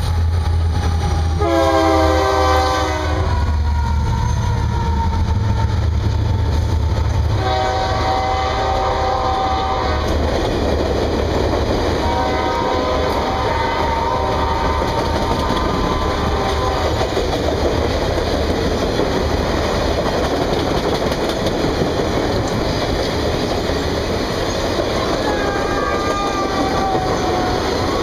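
A passing train's diesel locomotive sounds its air horn in several blasts: a short one about 2 s in, then longer ones around 8 s and from about 12 to 17 s, and a faint one near the end. Under the horn, a heavy locomotive engine rumble fades after about 7 s, and a steady noise of the cars' wheels rolling over the rails continues.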